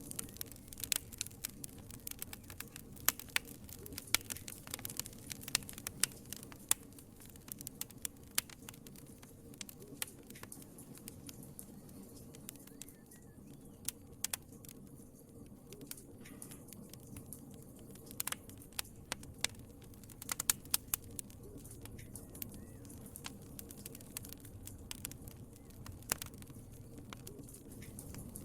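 Wood fire burning in a fireplace: a soft steady rush of flame under irregular sharp crackles and pops, which come thickest in the first half and again a little past the middle.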